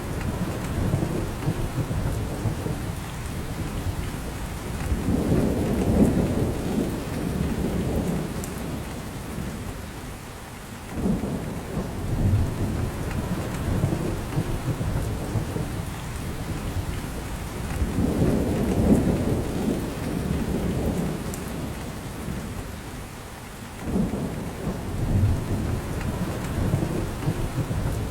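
Steady rain falling in a spruce forest, dripping from the branches. The rain sound is weighted low, with slow rumbling swells that rise and fade about every thirteen seconds.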